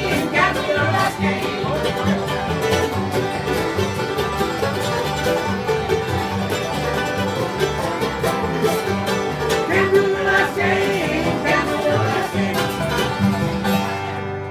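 Bluegrass-style string band playing an instrumental stretch without singing: plucked strings over a steady, regular bass beat.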